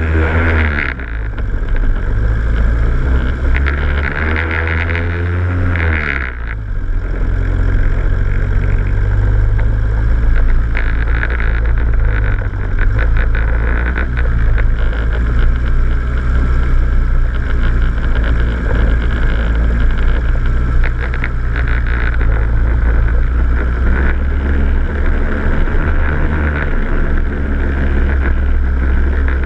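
A vehicle's engine drives slowly over a rough gravel track, heard from a camera mounted on the bonnet. The engine note rises as it revs and drops sharply about six seconds in. It then runs steadily with scattered knocks and rattles from the bumpy ground, and climbs again near the end.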